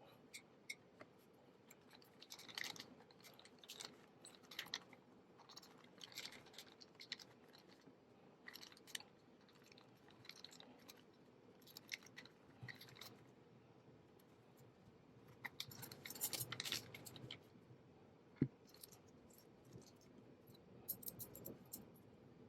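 Intermittent crinkling, rustling and small clicks of packaging being handled, with one sharper knock about eighteen seconds in.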